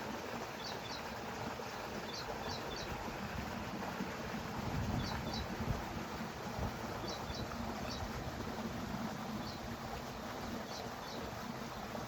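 A small bird calling in short high chirps, in clusters of two or three every second or two, over a steady rushing outdoor background that swells into a low rumble about five seconds in.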